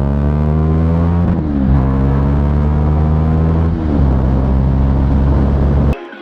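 Single-cylinder engine of a 2017 KTM Duke 390 through a loud aftermarket SC Project exhaust, accelerating with its pitch climbing steadily. The pitch drops twice at upshifts, about a second in and about four seconds in, and the sound cuts off suddenly near the end.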